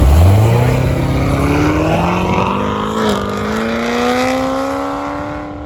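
A car engine pulls away hard from a loud low rumble, its pitch climbing steadily for about five seconds with a brief hitch about three seconds in, and it fades as the car accelerates off.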